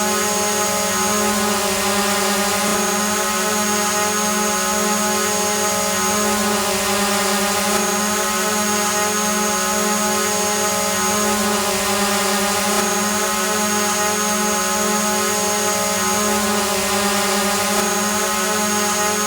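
Quadcopter drone hovering: a steady, even whine of its propellers and motors, holding one pitch over a constant hiss, looped and repeating about every five seconds.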